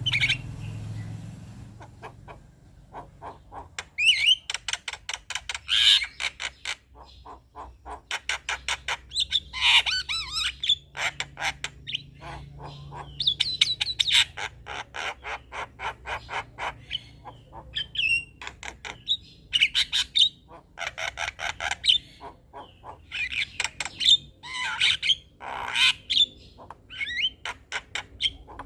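A male Javan myna (jalak kebo) singing its chattering song: rapid runs of clicks and rattles mixed with harsh squawks and whistled notes, coming in repeated bursts with short pauses.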